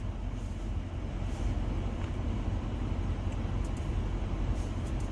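Steady low hum inside the cabin of a stationary Audi SQ7, with a few faint ticks near the end.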